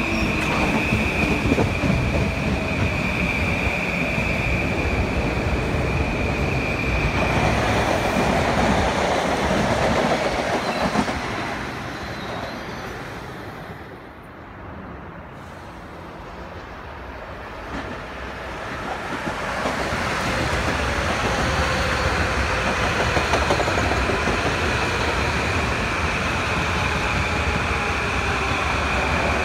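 Electric passenger trains running past on the rails, with wheel-on-rail rumble and a steady high ringing tone. The sound fades for several seconds in the middle, then builds again as a train comes by.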